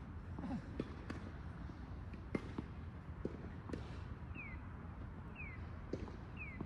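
Tennis ball knocks from racket hits and court bounces, about six sharp knocks at uneven spacing. From about four seconds in, a short falling whistle repeats about once a second.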